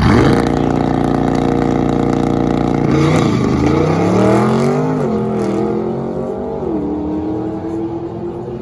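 Race car engines held at high revs on the drag strip start line, then launching and accelerating hard, the revs rising and dropping back at each gear shift before the sound fades down the track.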